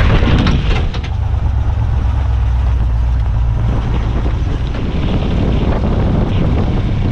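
Land Rover Series 2A driving, heard from inside the vehicle: a steady low engine and drivetrain drone with road and wind noise, dipping briefly about a second in.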